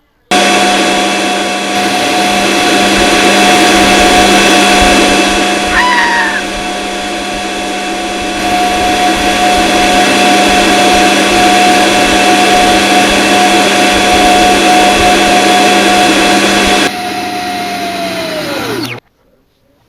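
Vacuum cleaner motor running with a loud, steady whine, starting abruptly. Near the end it winds down, the pitch falling as it stops.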